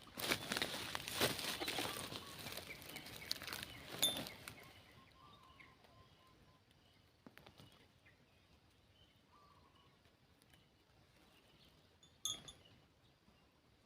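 Loud rustling and crackling with many small clicks for about four seconds, then it drops away to faint outdoor background with a few short, faint bird calls and one sharp click near the end.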